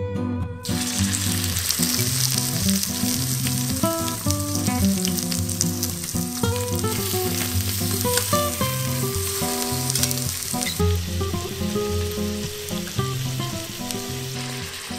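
Raw chicken pieces sizzling in hot oil in the stainless steel inner pot of an Instant Pot on sauté. The sizzle starts suddenly about a second in as the first piece goes in, with scattered clicks of metal tongs, over soft background guitar music.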